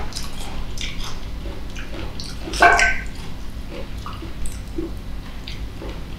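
Close-miked wet chewing and mouth smacks from eating mango, made up of scattered short clicks, with one louder wet mouth sound about two and a half seconds in.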